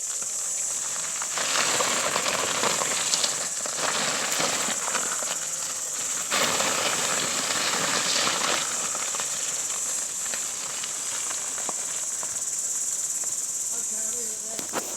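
Homemade electric tracked skid steer, on tracks cut from motorcycle tyres, driving over rough ground. The rough noise of its tracks swells and fades, loudest in two stretches about two and seven seconds in, over a steady high-pitched hiss.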